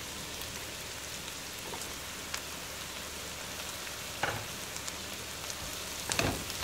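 Onions sizzling in hot sesame oil in a skillet, a steady frying hiss, as strips of bell pepper are dropped in on top. A couple of short knocks stand out, one about four seconds in and another near the end.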